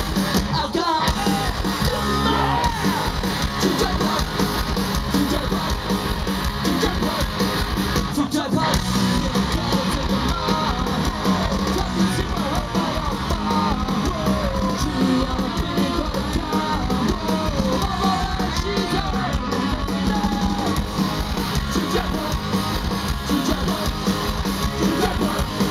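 Punk rock band playing live, loud distorted guitars and drums with shouted singing over them, heard through a crowd-level recording.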